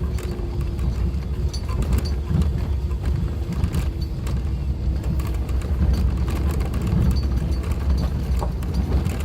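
Suzuki Jimny driving along an unpaved forest road: a steady engine and road rumble with scattered ticks and knocks.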